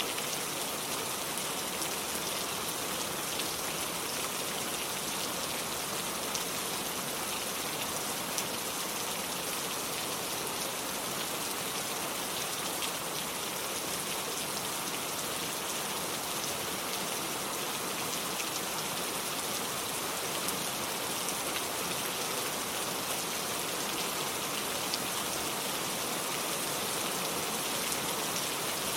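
Steady rain falling: an even hiss with scattered sharper drop ticks throughout.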